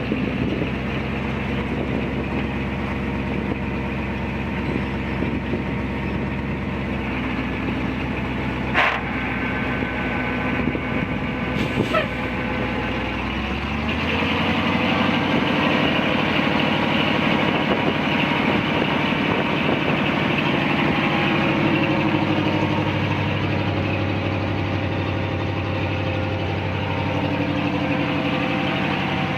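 1974 Ford 900 grain truck's engine idling steadily, with two short sharp noises around nine and twelve seconds in; about fourteen seconds in it speeds up and holds a steady, higher speed.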